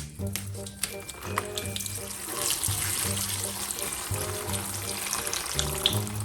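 Water running steadily from a tap, as if something is being rinsed under it, over background music with a repeating bass line.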